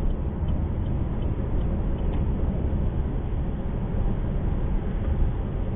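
Steady low rumble of road and engine noise inside a car cruising on a highway.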